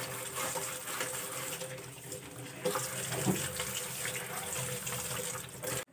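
Water running steadily from a kitchen tap into the sink, with a few light knocks of things being handled.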